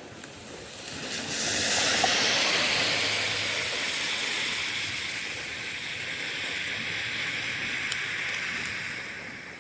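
Rushing rain ambience, a hissing downpour that swells up about a second in, holds, and eases off near the end.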